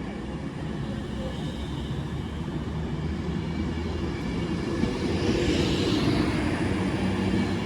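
Avanti West Coast Class 390 Pendolino electric train coming through the station, a rushing rumble that grows louder, with a hiss at its loudest about five to six seconds in.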